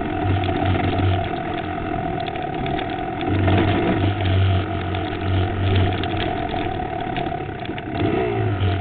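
Enduro dirt bike engine running on a rough trail, the throttle swelling and easing, heard close from a camera mounted on the bike. Frequent knocks and rattles come in over it.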